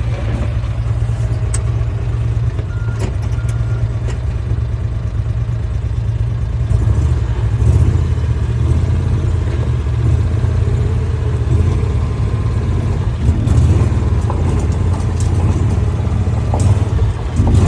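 A vehicle's engine running steadily while it is driven, growing a little louder about seven seconds in.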